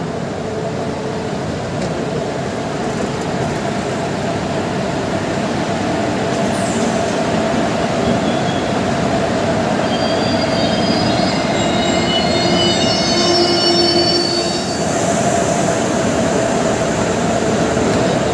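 Train coaches running on the rails with a steady rumble. About halfway through, a high squeal of several pitches from the wheels or brakes lasts around six seconds, typical of the train slowing as it comes into a station.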